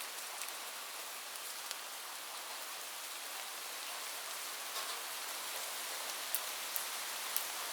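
Steady rain falling, an even hiss with scattered sharper drop ticks, a few louder ones in the second half. No thunder.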